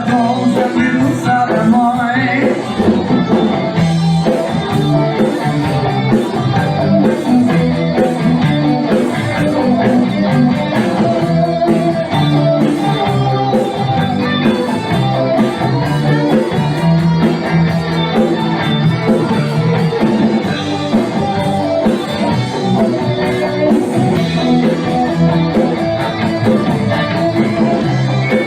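A rock band playing a song with electric guitar, with some singing.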